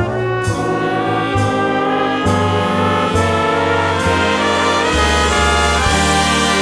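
Jazz big band playing a full ensemble passage with the brass section in front: trumpets and trombones hold chords that change about once a second, over a bass line.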